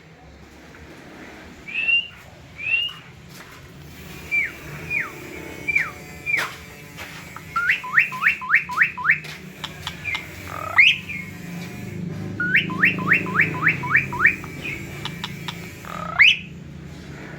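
Starling (jalak) singing in clear whistled notes. It starts with single falling whistles, then gives two quick runs of about six rising notes each, broken by loud sweeping calls.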